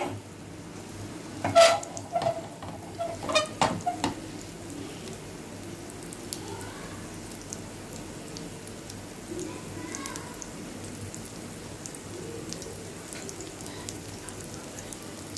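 Vegetable omelet frying in freshly poured oil on a flat griddle: a steady sizzling hiss. A few sharp clicks or knocks stand out in the first four seconds.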